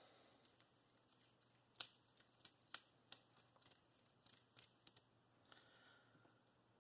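Near silence with a dozen or so faint, irregular clicks as a small metal worm gear is worked through a wet Scotch-Brite pad to polish its threads.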